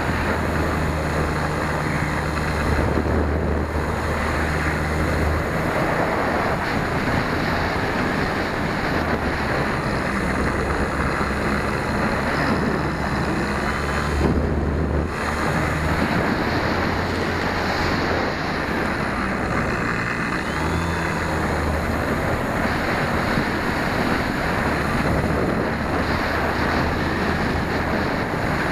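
Wind noise rushing over the microphone of a small 808 keychain camera mounted on the tail of an RC Super Cub model plane, steady throughout.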